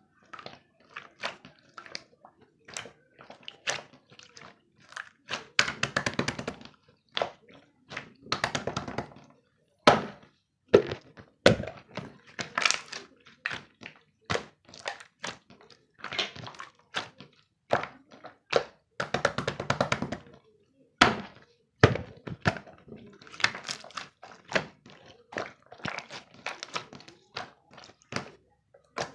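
Irregular short taps and knocks, several a second, with a few longer rattling stretches.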